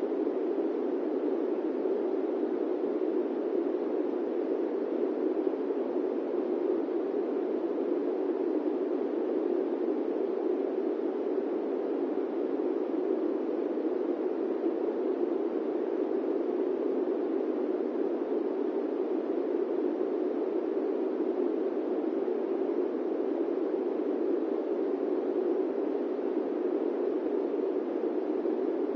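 Airplane cabin noise: a steady, muffled rushing drone that never changes, with no distinct events.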